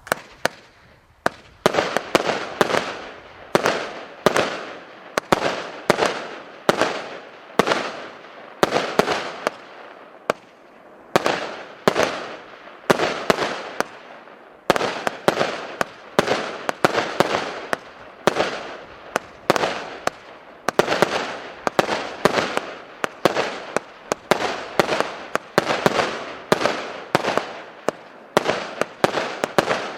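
'Rumba' ОТС 5050 firework battery (Orient) firing shot after shot: a steady run of sharp bangs, about two a second, each one trailing off before the next.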